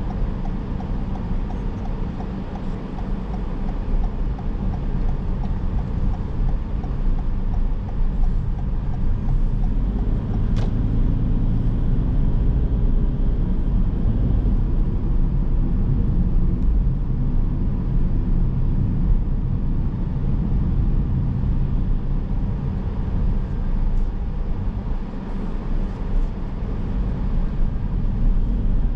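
Car driving on town roads: steady engine and tyre noise. A regular light ticking runs through the first ten seconds or so, and a single sharp click comes about ten seconds in.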